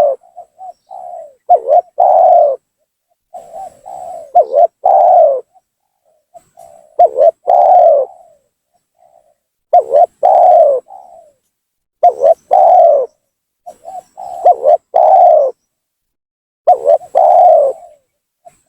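Spotted dove (tekukur) cooing its lively lure call: phrases of several low coos, repeated about every two to three seconds with short silences between.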